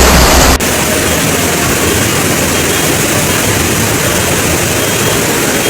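Loud, steady rushing of torrential floodwater, heard as an even hiss. A deeper rumble underneath stops abruptly about half a second in.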